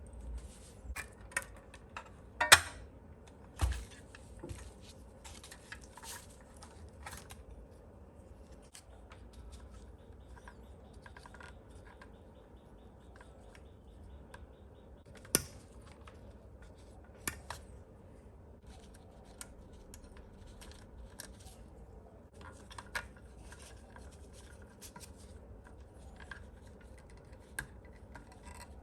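Scattered clicks and taps of small parts and hand tools being handled during assembly of an RC excavator kit, with two sharper knocks, one about two seconds in and one about halfway through.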